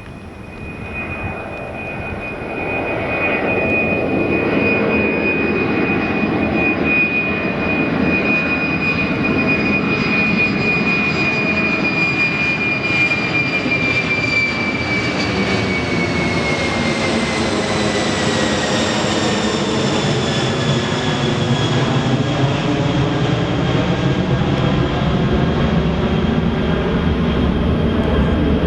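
Jet airliner's engines passing close by: a loud whine and roar that swells over the first few seconds. About halfway through, the high whine drops steadily in pitch as the aircraft goes past.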